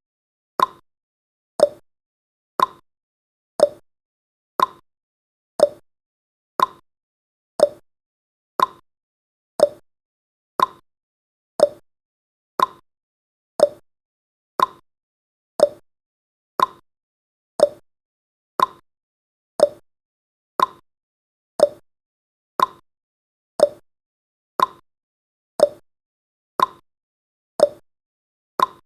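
Countdown timer's clock-style tick sound effect: one short, sharp tick every second, marking off the seconds.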